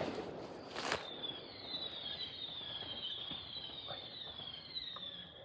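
A lit firework rocket fuse hissing, with a high, wavering whistle that drifts slowly down in pitch, after a sharp click about a second in.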